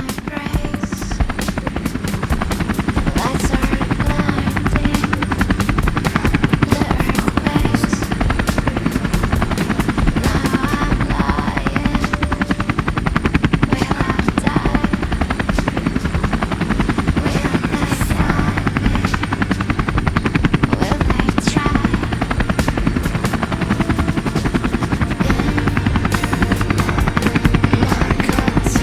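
Helicopter close overhead: the steady, rapid beat of its rotor blades, loud and unbroken.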